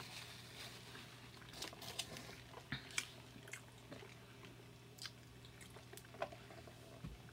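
Close-miked eating sounds: a person chewing carne asada fries with shrimp, soft wet mouth smacks and scattered small clicks.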